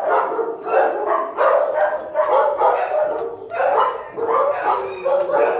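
Big shelter dogs barking in their kennels, one bark after another with no break.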